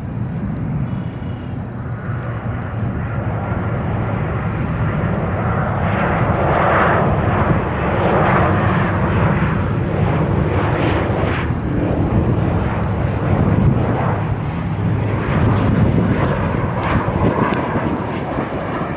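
Boeing 737 airliner on approach passing the runway, its twin jet engines swelling to a loud rushing roar that holds for several seconds, then eases slightly.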